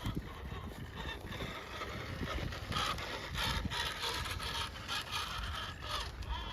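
RC rock crawler being driven: its small electric motor and gearbox whining in short throttle bursts, with tyres scraping and knocking over the ground.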